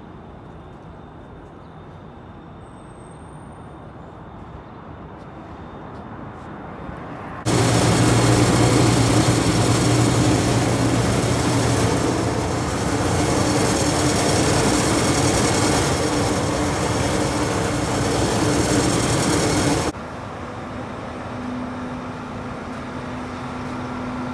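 Loud, steady machinery noise with a low hum, starting abruptly about seven seconds in and cutting off suddenly near the end, leaving a quieter steady hum.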